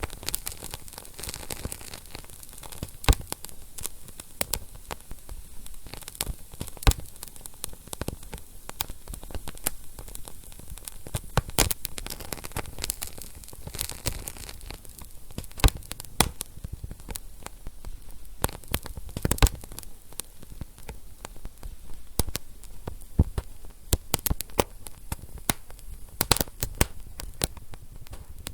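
Wood fire burning in a fireplace, crackling and popping at irregular intervals over a steady soft hiss, with a few louder pops scattered through.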